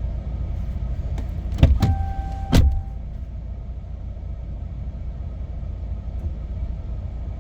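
Two sharp clunks about a second apart, with a steady electronic beep lasting about a second starting at the first, over a steady low hum from the truck.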